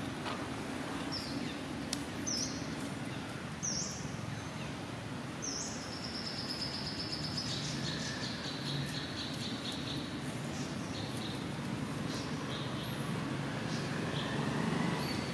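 Small birds chirping: short high calls every second or so, then a long rapid trill in the middle. Under them runs a steady low background noise.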